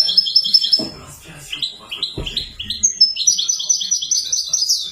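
European goldfinch singing: fast runs of short, high chirping notes, with two soft low knocks about one and two seconds in.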